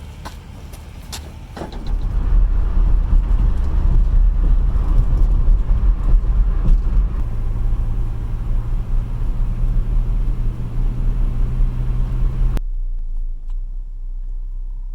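A motor vehicle's engine running with a heavy low rumble, which grows louder about two seconds in and stops abruptly near the end.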